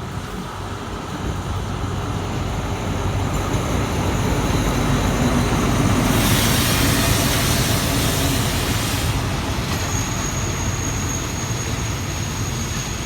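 Passenger train running: a low rumble that grows louder, with a loud rushing hiss from about six to nine seconds in. A thin, high, steady whine comes in over it near the end.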